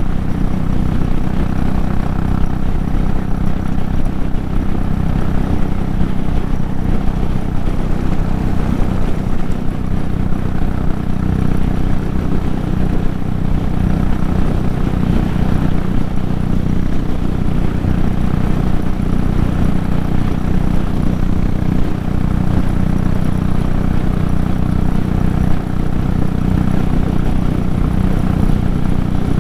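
Royal Enfield Classic 500's single-cylinder engine running steadily at highway cruising speed, about 110 km/h, geared taller with a 19-tooth front sprocket. Wind rushes past the moving bike.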